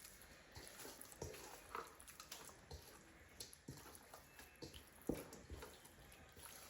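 Faint wet squishing and light scattered knocks of fish fillets being mixed by hand in a soy-based marinade, coating each fillet.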